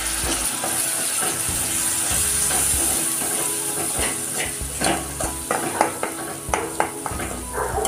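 Spice masala of onion, ginger-garlic paste, turmeric and chilli powder sizzling in hot mustard oil in a kadhai, just after a little water has been added, while a metal spatula stirs it. From about four seconds in, the spatula scrapes and clicks against the side of the pan.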